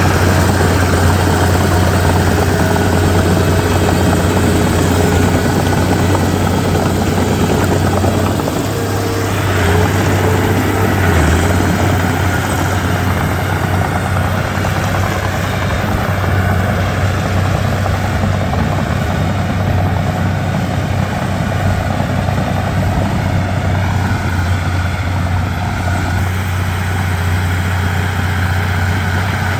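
Komatsu D31P bulldozer's diesel engine running steadily under load with a deep, even drone, dipping briefly about eight seconds in.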